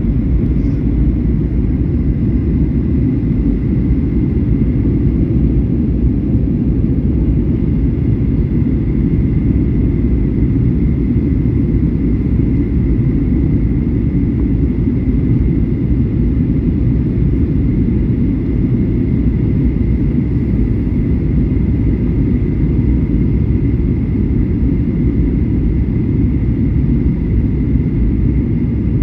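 Steady low rumble of a Boeing 737-800's CFM56 jet engines, with a faint steady high whine above it; the level holds constant throughout.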